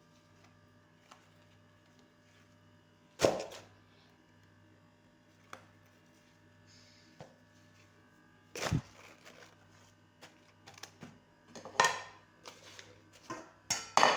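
A few sharp knocks and thuds of objects being handled, the loudest about three seconds in and near nine seconds, with a run of smaller clicks and knocks near the end, over a faint steady low hum.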